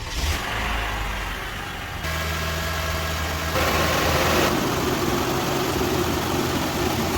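Lexus RX 330's V6 engine running, with two step rises in level, at about two seconds and again a second and a half later.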